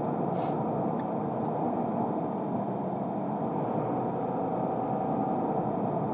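Steady engine and road noise heard inside a car's cabin as it drives through traffic.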